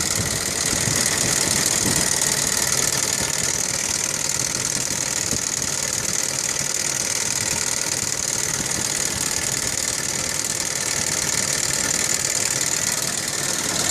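1998 Audi 2.8 V6 5-valve engine idling steadily with lots of valve noise from the front of the driver-side valve cover. This is not how it should sound; the owner suspects a faulty chain tensioner.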